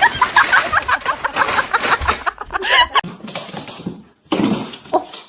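Laughter: a quick run of short repeated syllables, about four a second, for the first three seconds. Then quieter sounds follow, with a single sharp click near the end.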